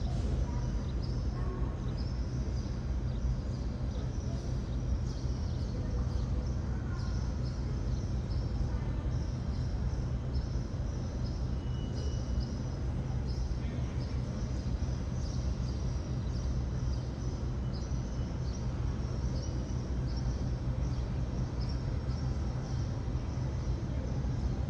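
Steady low rumble of outdoor airfield ambience, with a high chirping repeated about once a second.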